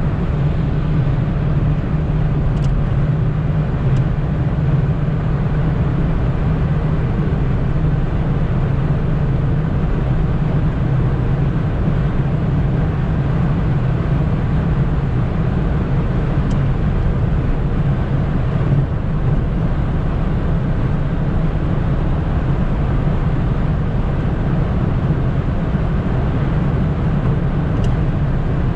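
Opel Corsa B 1.4i four-cylinder engine droning at a steady, unchanging pitch over road and wind noise as the small car holds a high motorway speed.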